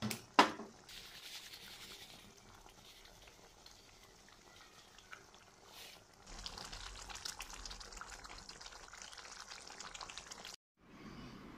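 Sambal chili paste sizzling and bubbling in oil in a wok, with one sharp knock about half a second in. The crackling gets louder about six seconds in and cuts off suddenly near the end.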